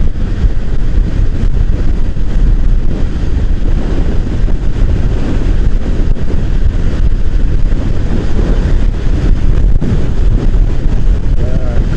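Steady wind rush on the microphone of a moving motorcycle, with the low drone of the bike running underneath at riding speed.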